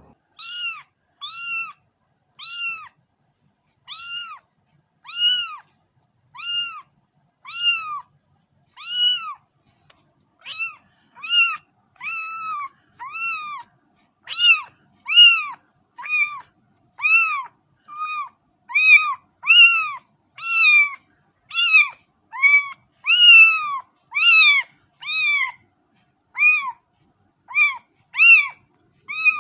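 Cat meowing over and over: short, high, rise-and-fall meows with silence between them. They come about once a second at first and faster from about ten seconds in.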